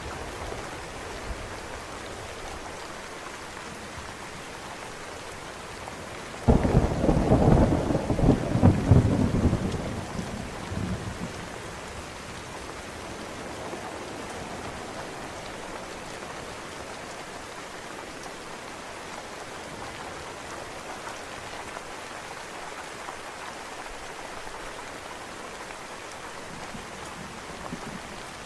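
Steady rain falling, with a thunderclap that breaks in suddenly about six seconds in, crackles and rumbles for a few seconds and dies away, leaving the rain alone.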